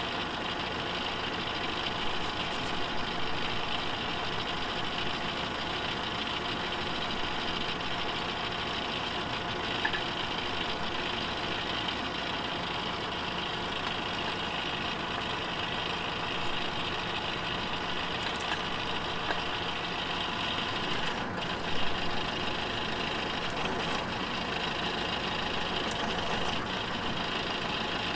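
Tractor engine running steadily at idle, with a few small clicks and a short clunk about three-quarters of the way through.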